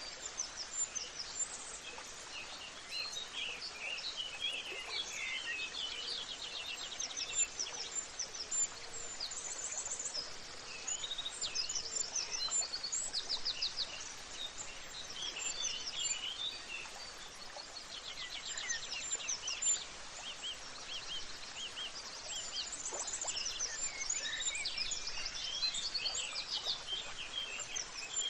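Many birds singing and chirping at once, overlapping calls with quick rapid-fire trills, over a faint steady hiss.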